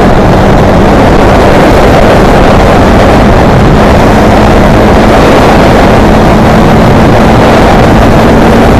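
Heavy wind rush on the microphone of a motorcycle riding at speed, loud enough to overload the recording, with a steady engine note underneath that slowly rises in pitch.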